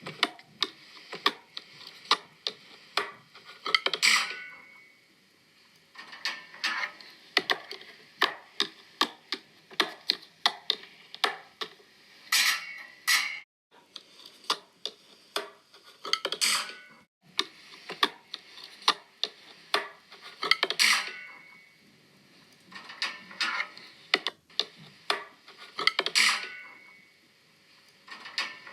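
Rapid, irregular clicks and taps of small hard objects, with a louder clattering rattle every four to five seconds.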